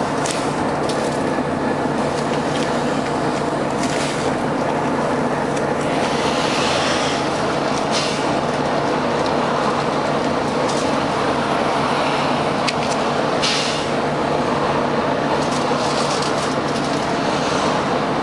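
Volvo B9TL bus's diesel engine and cooling fan running with a steady loud drone, with scattered rattles and clicks. Short air hisses come twice, about six seconds in and again about thirteen seconds in.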